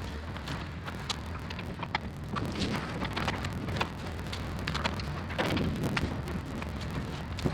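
Excavator engine running steadily under load while it pulls trees, with many irregular sharp cracks and snaps of wood and branches breaking.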